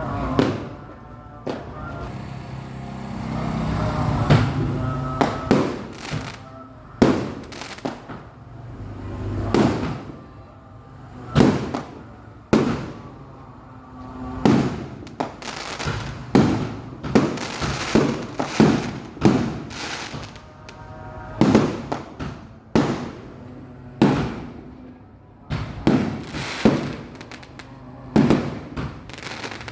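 Fireworks and firecrackers going off in a long irregular string of sharp bangs, about one to two a second, over music.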